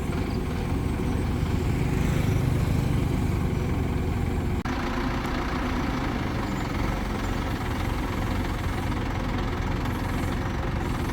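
Engine of a mobile crane running steadily at idle, a continuous low hum. About halfway through, the sound shifts abruptly.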